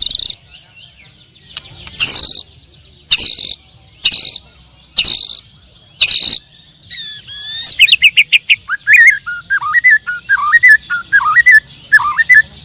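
Canaries singing in a songbird contest: five loud, short, high notes about a second apart, then rapid trills and warbling phrases that run until near the end.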